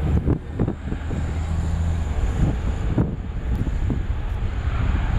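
Wind buffeting the microphone in irregular gusts, over a steady low rumble from the distant jet engines of a Boeing 777-300ER.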